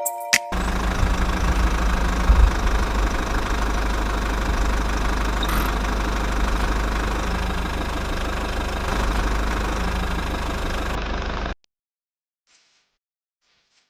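Small engine running steadily with a low rumble, stopping abruptly near the end.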